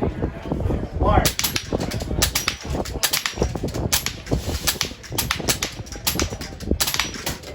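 Air rifles firing shot after shot in quick, irregular succession, many sharp cracks from about a second in, some in close pairs. Wind rumbles steadily on the microphone underneath.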